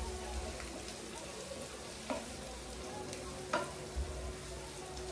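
Sliced peppers and spices sizzling in a frying pan as a wooden spoon stirs them, with a couple of light knocks of the spoon against the pan, about two and three and a half seconds in.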